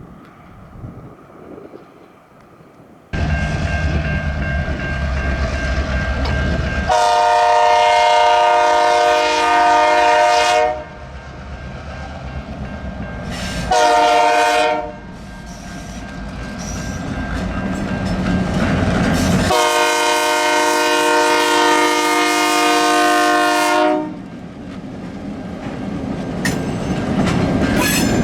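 Four-axle CN diesel-electric locomotives 4910 and 4796 throttle up suddenly about three seconds in and keep working as the train starts off. Over the engines the multi-note locomotive horn sounds three times, long, short, long, a crossing signal as the train sets out toward the grade crossing.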